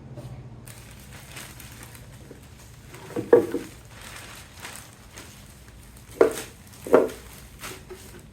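Plastic wrap crinkling and rustling as it is handled and wrapped over a wooden beehive box, with three louder crunches about three, six and seven seconds in.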